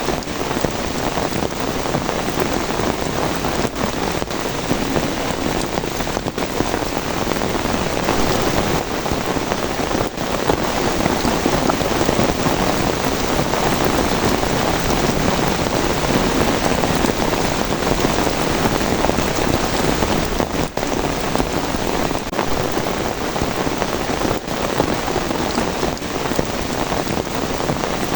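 Steady rain falling, a dense and even hiss of drops with no thunder standing out.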